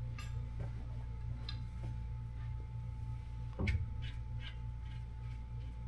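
Scattered light clicks of parts being handled, with one louder knock about three and a half seconds in, over a steady low hum.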